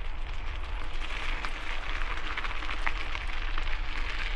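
Bicycle tyres crunching over gravel: a steady hiss full of small quick ticks, with a low wind rumble on the microphone underneath.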